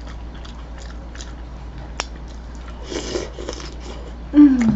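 Close-miked chewing and eating sounds: soft mouth clicks and smacks, with one sharper click about two seconds in and a brief noisy patch around three seconds. Near the end comes a short voiced sound that falls in pitch, like a hum or 'mm'.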